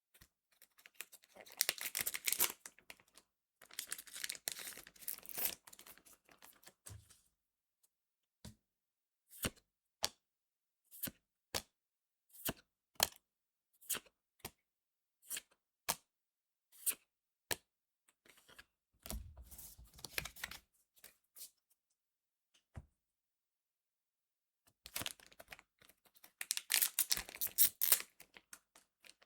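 Cardfight!! Vanguard booster packs being torn open and their wrappers crinkled, in several rustling spells. In between comes a run of sharp single clicks, about one a second, as the cards are flicked through one by one.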